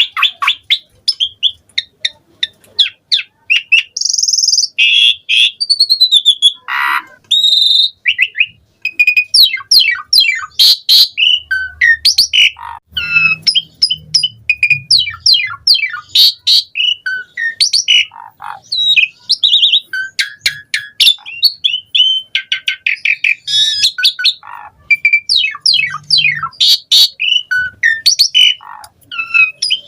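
Asian pied starling (jalak suren) singing non-stop: a fast, varied stream of whistles, chirps, rapid sweeping notes and harsh squawky calls, full of mimicked phrases (isian).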